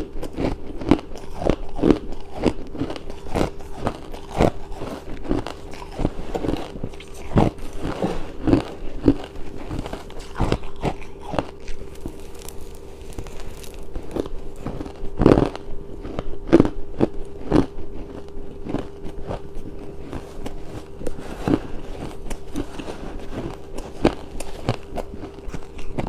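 Close-miked chewing and crunching of hard ice: irregular sharp cracks, several a second. A faint steady hum runs underneath.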